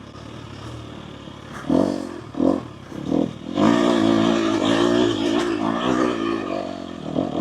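Four-stroke dirt bike engine being ridden: running low at first, three short throttle blips about a second into the clip and after, then held on steady throttle under load for the last few seconds.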